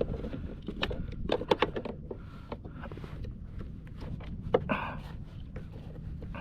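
A few sharp knocks and clicks on a fishing kayak: a quick cluster about a second in and a single louder one near two-thirds of the way through, over a steady low rumble.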